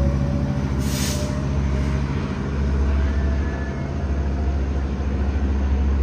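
Diesel locomotives of a BNSF freight train running, a steady low engine rumble.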